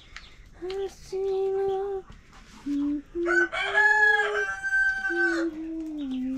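A rooster crows once, about halfway through: a couple of short notes, then one long held note. Under and around it, a voice sings a slow tune in long, steady notes.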